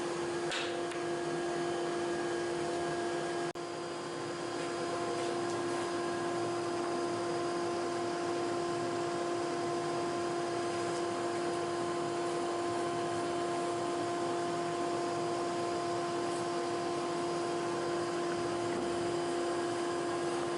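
A workshop machine's motor running steadily with a constant hum, dipping briefly about three and a half seconds in.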